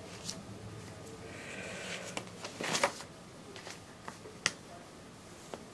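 Paper pages of a ring-binder catalog being turned and handled: a rustle of paper about two and a half seconds in, with several sharp snaps and clicks scattered through.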